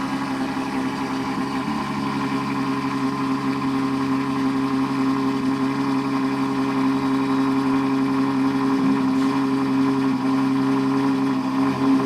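Ferrari F12's V12 engine, Novitec N-Largo conversion, idling steadily at a raised cold-start idle, with an even, deep exhaust note that dips slightly in pitch about two seconds in.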